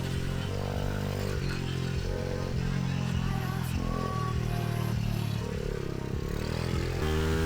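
Pit bike's small single-cylinder engine revving up and easing off repeatedly, its pitch rising and falling every second or two.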